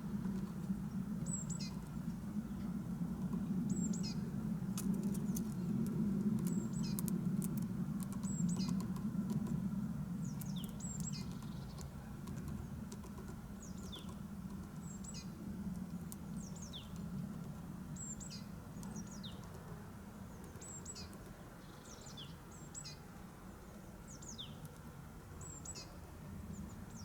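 Small songbird calls: short, thin, high notes sliding down in pitch, repeated about once a second over a steady low rumble. A few sharp clicks come in the first third.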